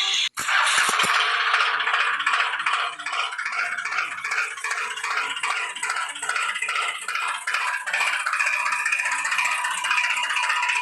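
Continuous rattling, after a brief cut-out just after the start.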